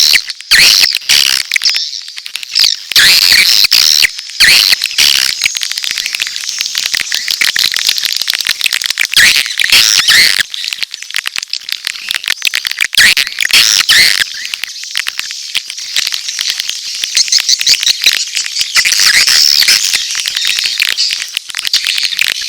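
Swiftlets twittering and chirping in a dense, continuous chatter with many rapid clicks, a mix of adult courtship calls and chick cheeps. This is a swiftlet-house lure call played to attract swiftlets to roost and nest.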